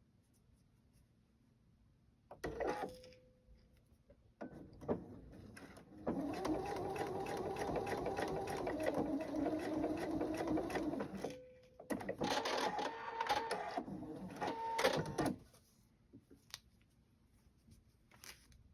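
Domestic sewing machine stitching a seam on a paper-pieced quilt block in runs. A short burst about two seconds in, a long steady run of about five seconds from six seconds in, then another run of about three seconds that stops about fifteen seconds in.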